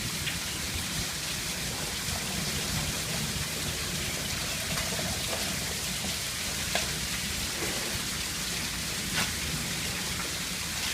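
Heavy monsoon rain falling steadily, an even hiss of downpour on the ground and standing flood water, with a couple of sharp drip taps.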